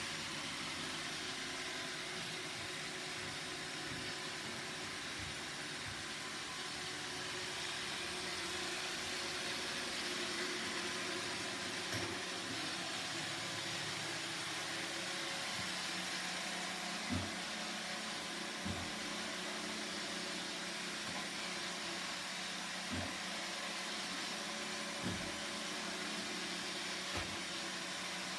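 Roomba robot vacuum running with a steady whirring hiss. A low hum joins a little past halfway, and there are a handful of short knocks a few seconds apart.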